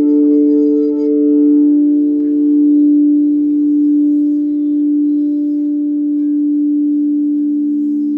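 Singing bowls ringing together in long, overlapping sustained tones with a slow wavering pulse; a lower tone swells in near the end.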